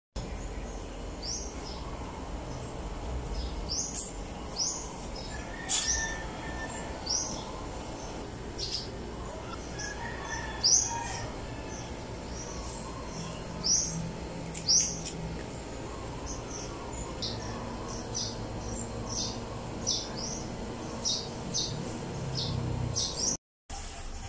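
Small birds chirping: many short, high chirps repeated at irregular intervals.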